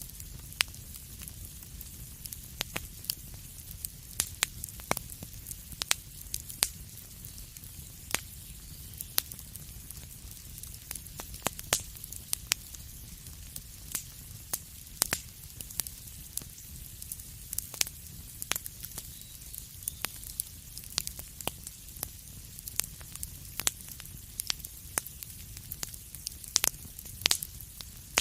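Fire crackling in a fireplace: irregular sharp pops, sometimes several a second, over a steady soft hiss and a low rumble.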